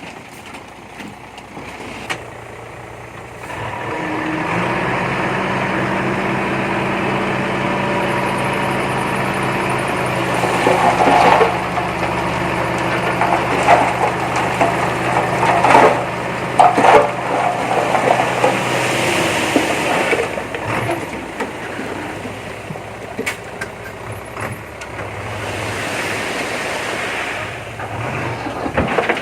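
Diesel engine of heavy earthmoving machinery running and working hard, rising about four seconds in. Sharp clanks and knocks come through the middle stretch before the engine drops back to a lower, rougher run.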